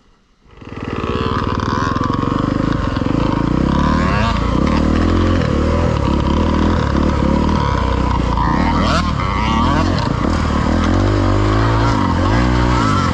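Dirt bike engine starting about half a second in, then running and being revved, its pitch rising and falling repeatedly.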